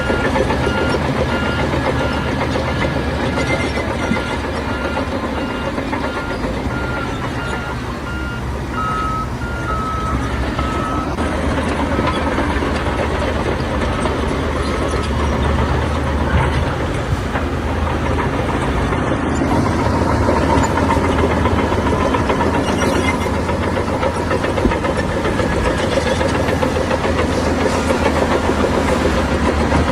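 Heavy construction machinery running, a steady diesel engine drone, with a repeating high beep in the first half.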